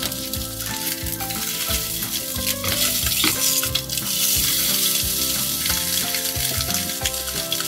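Slices of Spam sizzling as they fry in oil in a nonstick pan. The sizzle grows louder about halfway through, as the slices are turned over.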